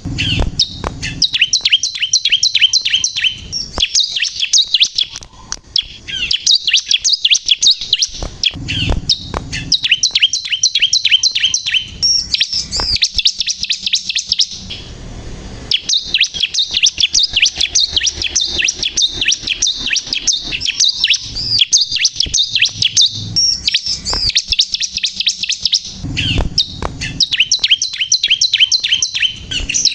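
Bar-winged prinia (ciblek kristal) singing continuously: rapid, repeated high chirping phrases a few seconds long, with a brief pause about halfway. A few faint low rumbles lie beneath the song.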